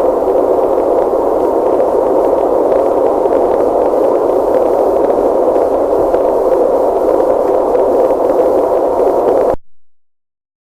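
Loud, steady static-like noise, a rushing hiss centred in the middle range, that cuts off abruptly near the end.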